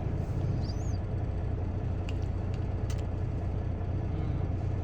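Semi truck's diesel engine idling with a steady low rumble, with a couple of faint clicks.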